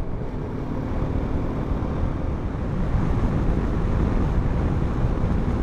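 Steady wind rush and road noise of a BMW G 310 GS motorcycle on the move, its single-cylinder engine running evenly underneath.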